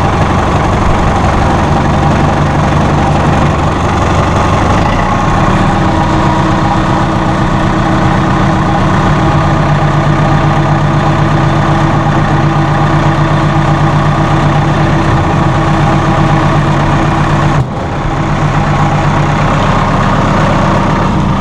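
The 2007 Massey Ferguson 573's Perkins 4.4-litre four-cylinder diesel engine idling steadily, freshly started.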